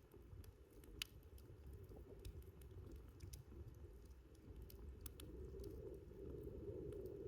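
Wood campfire burning faintly: a low, soft rumble of flame with scattered sharp crackles and pops, the loudest pop about a second in.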